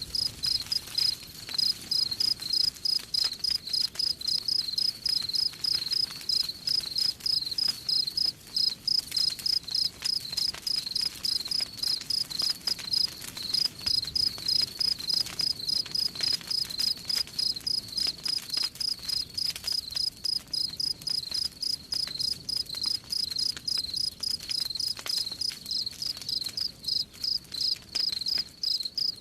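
Crickets chirping steadily in a rapid, even rhythm of several high chirps a second, over faint crackling of a campfire.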